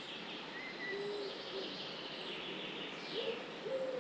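Faint, repeated low hooting or cooing calls of a bird, several short notes, over a steady background hiss, with a couple of brief higher bird chirps in the first second.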